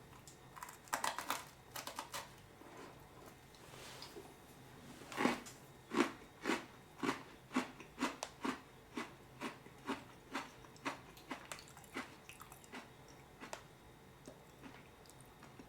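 A person biting into and chewing a crunchy carrot cake flavoured Oreo cookie. The crunches come about twice a second and slowly grow fainter.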